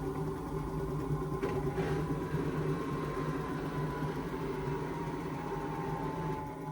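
Indesit washing machine running near the end of its cycle: a steady motor hum with a whine that slowly falls in pitch as the drum winds down.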